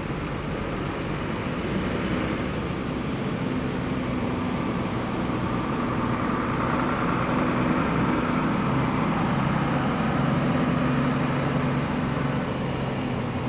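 Diesel bus engine running close by over road traffic noise, getting louder through the middle and easing off near the end.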